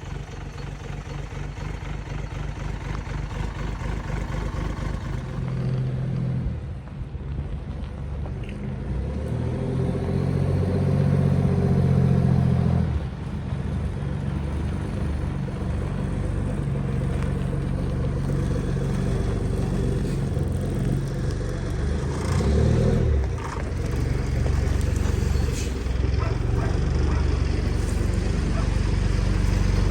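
Engine of a vintage Flxible bus running, building up to its loudest about ten to twelve seconds in, then dropping back suddenly and running on steadily.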